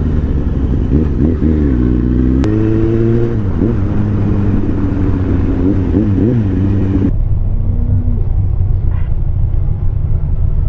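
Motorcycle engine running on the move, its pitch rising and falling. The sound changes abruptly a little past two seconds in and again about seven seconds in.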